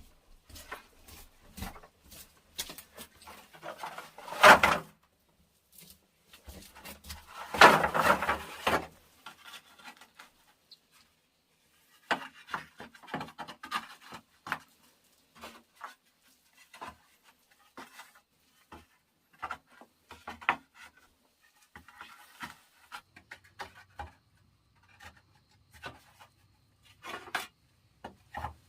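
Wood and brush being worked by hand: irregular rubbing, scraping and light knocks, with two louder scraping spells about four and eight seconds in.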